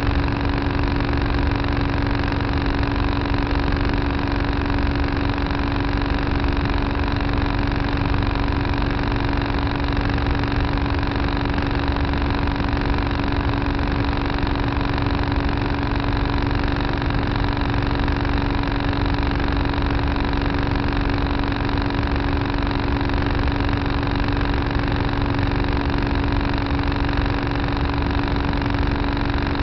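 Tractor engine running steadily at an even speed, with a constant hum that neither rises nor falls.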